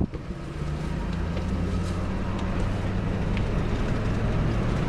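Car engine and road noise heard from inside the cabin while driving, a steady low hum that gradually gets louder.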